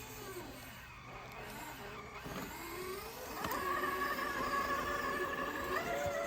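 Electric motor and gearbox of a radio-controlled scale crawler whining, the pitch rising and falling with the throttle. About three and a half seconds in it climbs to a louder, steady, higher whine.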